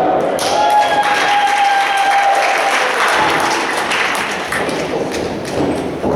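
Live crowd in a hall clapping and cheering, many hand claps blending into a dense wash, with a long held note from one voice or horn near the start.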